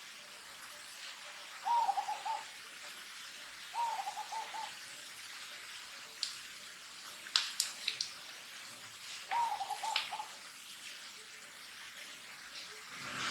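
A bird calls three times, each a short run of quick, even hooting notes. A few sharp clicks fall between the calls.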